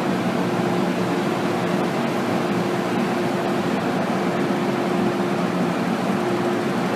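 Steady cabin noise inside an MTR M-Train passenger car, with a constant hum and no sudden events.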